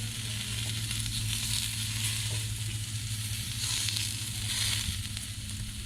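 Meat sizzling on a cast-iron grill plate over a fire pit: a steady sizzle that swells louder twice in the second half.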